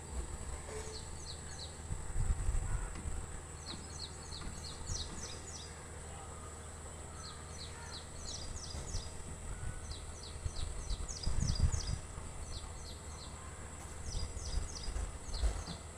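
Small bird chirping in quick runs of three to five high notes, the runs repeating every second or two, over a steady high whine. Low rumbles come twice, about two and eleven seconds in.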